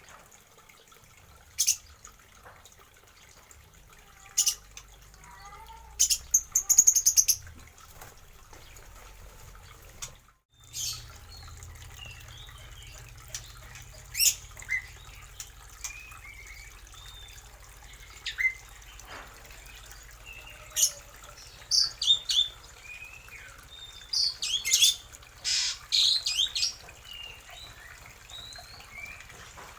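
Mixed aviary birds, Javan pied starlings and lovebirds among them, calling: loud sharp calls in short runs, with softer chirps between. The loudest are a rapid string of calls about six seconds in and a busy cluster near the end. There is a brief gap about ten seconds in.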